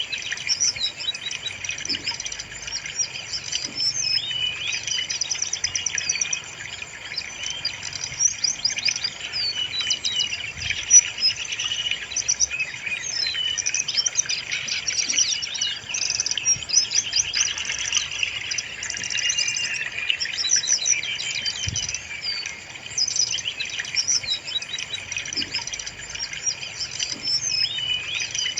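Brown-chested jungle flycatcher singing, with a dense, unbroken run of high, quick chirping and trilling phrases.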